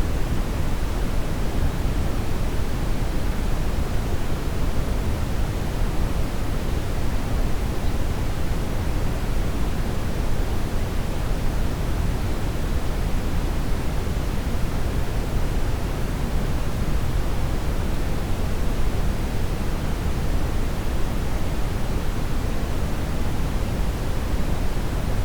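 Steady brown noise: an even, unchanging rush, strongest in the bass and thinning toward the treble.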